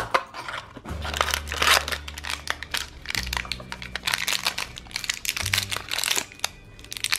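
Thin foil blind-bag wrapper of a mini-figure crinkling and tearing as fingers pull it open, a dense run of quick crackles that eases off near the end.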